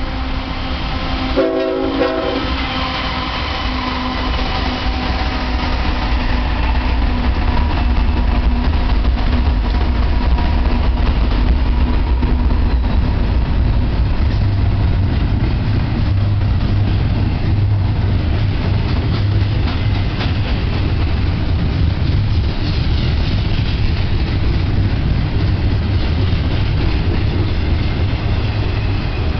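BNSF freight train passing close by: a short blast of the locomotive horn about a second and a half in, then the locomotives going by and a steady low rumble as the double-stack container cars roll past on the rails.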